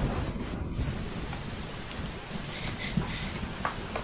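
Steady heavy rain falling, with a low rumble of thunder underneath.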